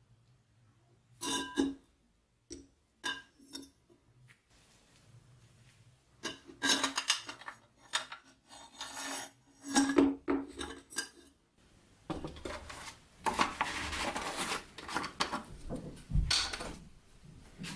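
Small metal pieces clinking and scraping against each other and a hard surface: first a few separate clinks, then longer stretches of scraping and rattling, with one dull thump near the end.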